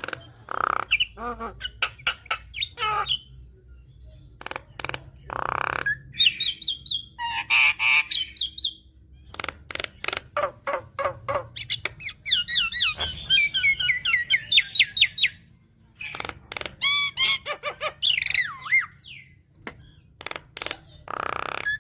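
Javan myna (jalak kebo) singing a long, varied song: harsh squawks, sharp clicks, fast rattling trills and whistled rising and falling notes, broken by short pauses.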